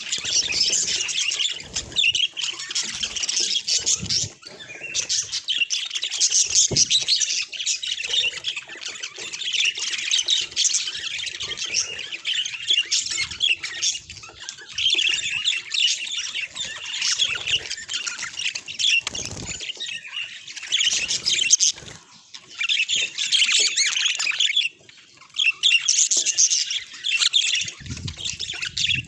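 Budgerigars chattering and warbling: fast, busy chirps and squawks with a few short pauses.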